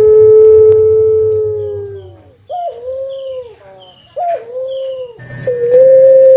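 Barbary dove (puter pelung) cooing: a long held note that falls away after about two seconds, two short notes that each open with an upward flick, then another long, steady drawn-out note starting near the end.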